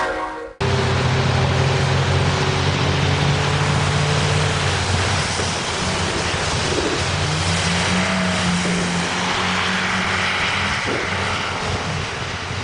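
A heavy vehicle's engine running under a steady rushing noise, its pitch rising about six seconds in and then holding.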